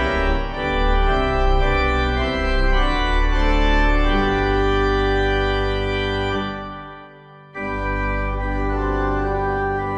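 Background music of held organ-like keyboard chords. It fades out just before seven seconds in and comes back abruptly about half a second later.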